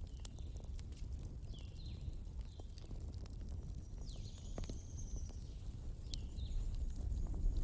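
Wood bonfire burning: scattered sharp crackles and pops over a low steady rumble, with a few short high whistles, one held longer near the middle.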